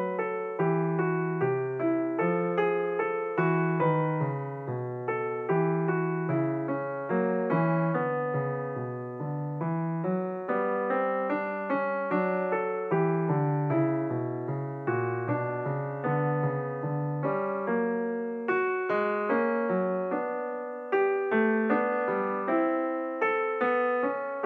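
Background piano music: a steady stream of notes, each struck and then fading.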